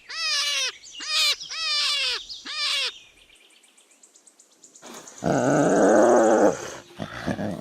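Hare calling: four short high-pitched calls, each falling in pitch, in the first three seconds. After a brief pause comes a louder, lower, rougher call lasting about a second and a half.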